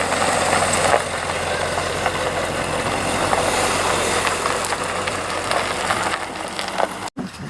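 Car engine idling as a car moves slowly past, a steady running sound.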